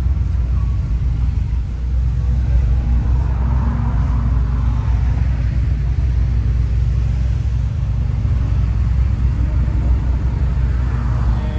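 Car engines running with a steady, low rumble, swelling slightly a few seconds in and again near the end.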